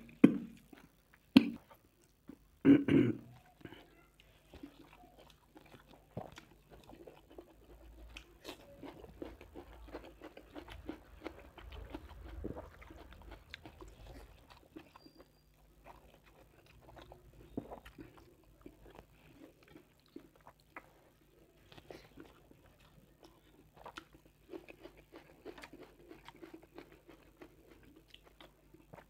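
Close-miked chewing and biting of a mouthful of rice and mutton curry eaten by hand, with irregular wet smacks and small crunches. A few loud, sharp clicks come in the first three seconds.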